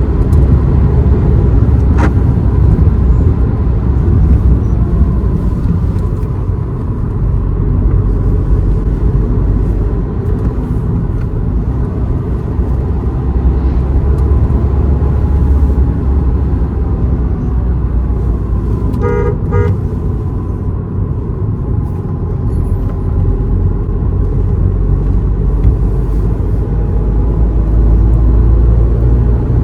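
Car driving, with a steady low rumble of engine and road noise. A vehicle horn sounds briefly about two-thirds of the way through.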